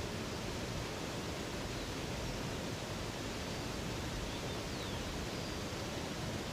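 Steady rush of flowing river water, with a few faint, high bird chirps in the middle.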